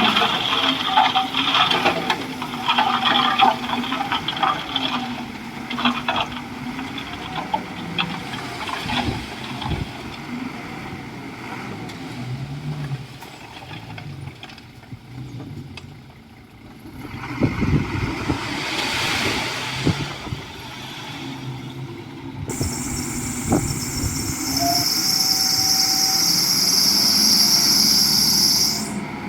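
Komatsu D41E crawler bulldozer's diesel engine working, with frequent knocks and clanks over the first several seconds. About three-quarters of the way through, a steady high-pitched sound comes in over the engine and stops just before the end.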